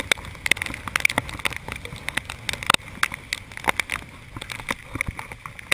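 Wind-driven rain pelting the camera in a tornado's storm: dense, irregular sharp taps of drops striking the lens housing over a rushing wind.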